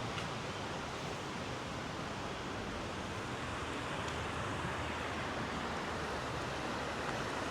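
River water rushing steadily, a constant even hiss with no let-up.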